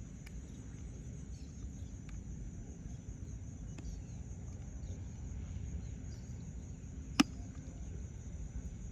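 Open-air lake ambience: steady low background noise with a constant high insect drone, like crickets. A single sharp click or knock about seven seconds in stands out as the loudest sound.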